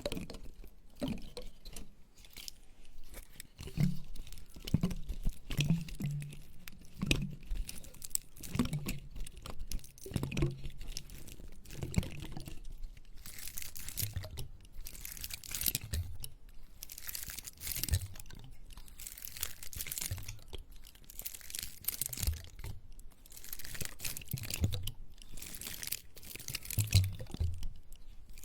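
A large dry pine cone rubbed and scratched close to the microphone, its scales giving crisp crackles and clicks. About halfway through it turns into scratchy strokes about once a second.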